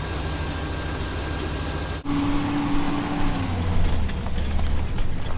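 Truck engine running, with a steady whine joining in about two seconds in and dropping in pitch a second or so later as the low engine hum grows heavier.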